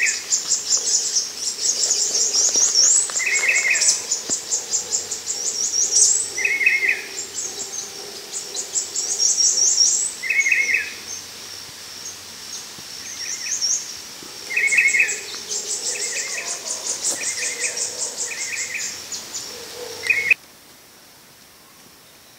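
Rainforest birdsong: rapid high-pitched trills and chattering note series, with a short lower two-part phrase repeated every few seconds. About twenty seconds in it cuts off abruptly to a faint background hum.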